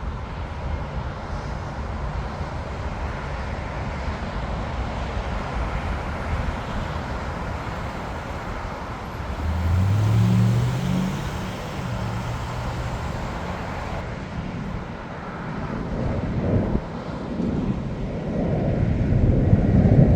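Jet aircraft and traffic noise at an airport: a steady rumble, with a vehicle engine rising and falling in pitch about ten seconds in and a louder rumble building near the end.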